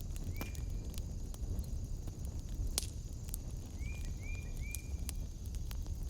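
Wood fire crackling, with irregular sharp pops over a low rumble. A steady high-pitched trill runs in the background, and short chirps come once about half a second in and three times in quick succession around four seconds in.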